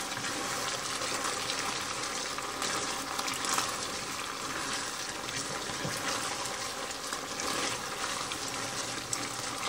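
Cubed chicken in a thick honey-garlic sauce simmering in a skillet, sizzling and bubbling steadily with fine crackles.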